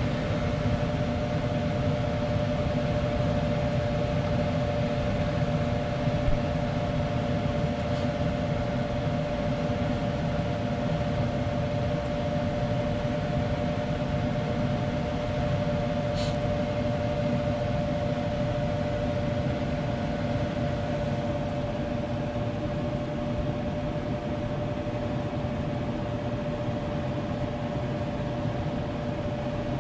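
Gas furnace blower fan running steadily with a constant hum, blowing air while the burner is off: only the fan runs and no heat comes.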